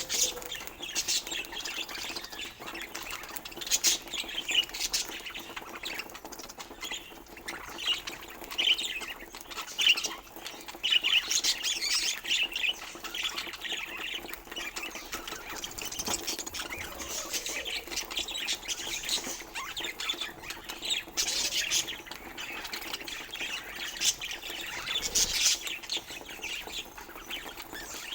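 Budgerigars chattering with rapid warbling chirps and frequent harsh squawks.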